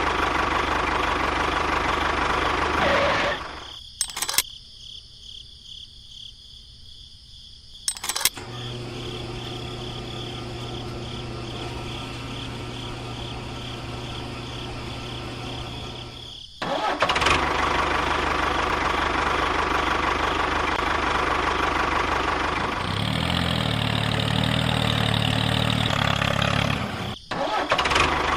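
Small motors of miniature model construction vehicles running, in several segments that cut in and out abruptly. A steady low hum sits in the middle, and a pulsing low drone comes near the end.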